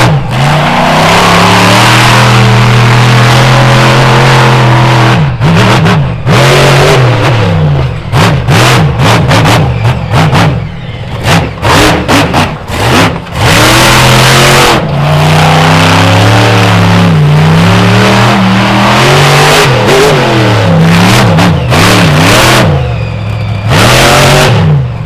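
Monster truck engine being revved hard, very loud: long stretches at high revs broken by repeated quick throttle lifts and stabs, the pitch swooping up and down, especially through the middle.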